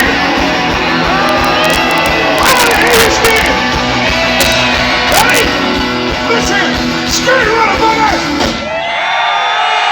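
Live rock band playing loudly with singing and crowd voices. About nine seconds in the instruments stop and held voices and shouting from the crowd carry on.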